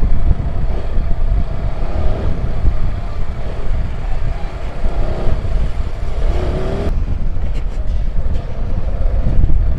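Motorcycle riding along a city street, its engine running with a few rising and falling changes in pitch, under a heavy low rumble of wind on the microphone.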